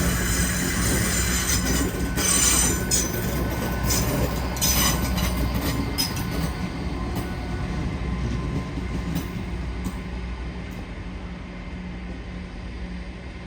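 Train moving through the station with its wheels squealing on the track for the first six seconds or so, over a steady low hum. The squeal then stops and the train's sound fades away.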